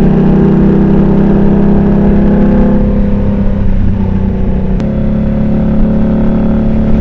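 Indian Scout motorcycle's V-twin engine running under way, its note dropping about three seconds in, then a sharp click near five seconds and the engine pulling again.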